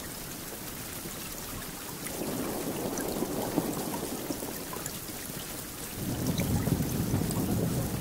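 Steady rain with scattered drops, and thunder rumbling: a low rumble swells about two seconds in and fades, then a louder, deeper one starts about six seconds in.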